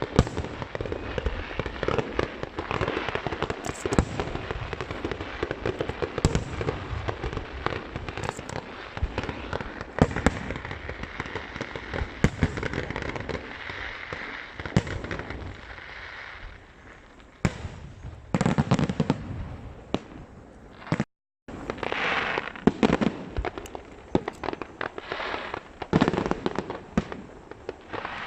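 Aerial fireworks show: a dense run of rapid bangs and crackling shell bursts, easing into a brief lull late on, then separate loud bursts again. The sound drops out completely for a moment about three-quarters of the way through.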